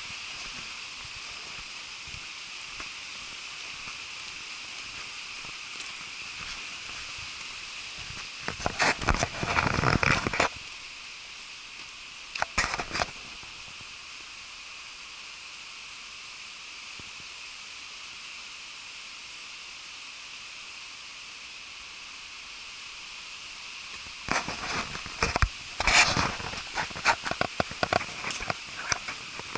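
Steady hiss of a waterfall, broken by loud, irregular crunching steps about a third of the way in and again for the last few seconds.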